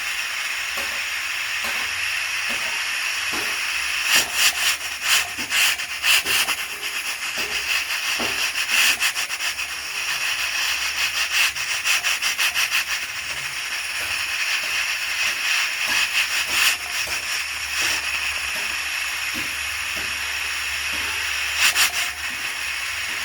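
Pressure cooker venting steam through its valve: a steady hiss with irregular louder spurts through the middle and again briefly near the end, the sign that the cooker is up to pressure.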